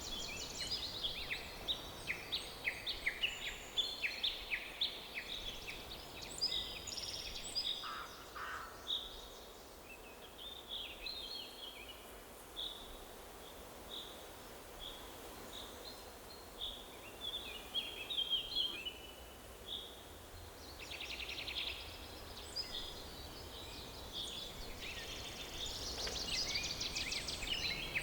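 Several songbirds singing and calling over a faint steady background hiss of forest ambience. The calls are quick, high chirps and trills, busy at first, sparser in the middle and busy again near the end.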